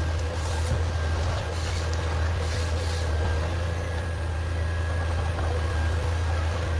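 Heavy forestry machine's engine running steadily, a low hum with a steady whine over it, and a few brief hissing sounds in the first three seconds.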